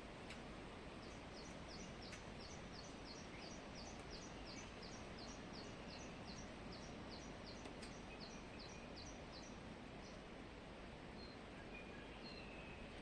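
A bird giving a long run of quick, high two-note chirps, about three a second, which stops about ten seconds in, followed by a few fainter scattered calls over a faint steady background hiss.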